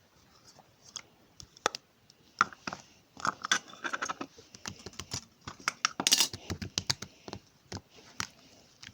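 Milk-white slime being squeezed and stretched by hand, giving irregular sticky clicks and small pops, sparse at first and coming thick and fast from about three seconds in.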